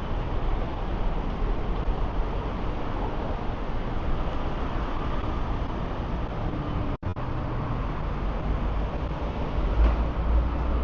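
Street traffic: a steady wash of passing vehicles with a heavy low rumble, swelling deeper near the end as a large vehicle passes. The sound drops out for a split second about seven seconds in.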